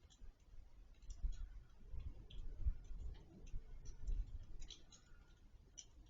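Faint, irregular clicks and soft low thumps over a low rumble.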